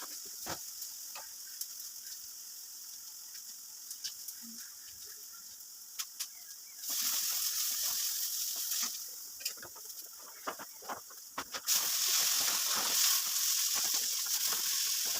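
Food frying in hot oil in a pan, a steady sizzle with scattered clicks and spits. The sizzle gets louder about seven seconds in and again near twelve seconds.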